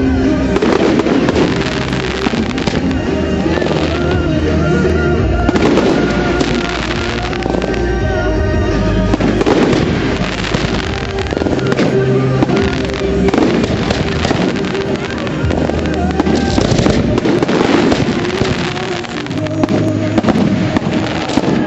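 Fireworks display: repeated firework bangs and crackles over loud music played along with the show.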